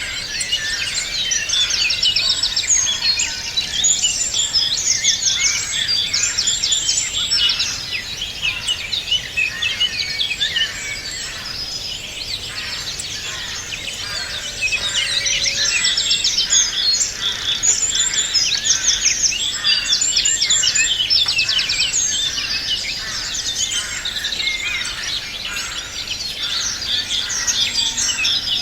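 Many small birds singing at once, a dense chorus of overlapping rapid trills and chirps, thinning briefly about halfway through before picking up again.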